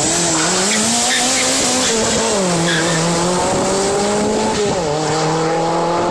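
Turbocharged 2.2 L stroker Toyota 3S-FE four-cylinder under full throttle, its revs climbing with two upshifts, about 2 s in and just before 5 s in, over a dense hiss of the semi-slick tyres spinning.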